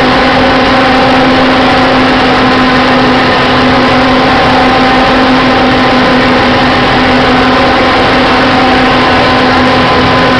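Boat engine running steadily under way: a constant droning hum with higher overtones, under a loud, even rush of noise.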